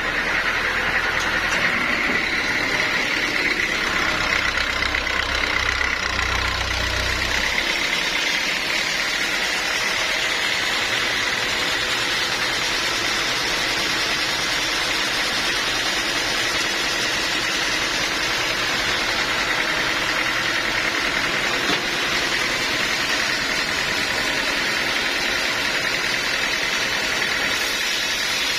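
Sawmill machinery running steadily, with a high even whine over a noisy hum. A deep low rumble underneath stops about seven seconds in.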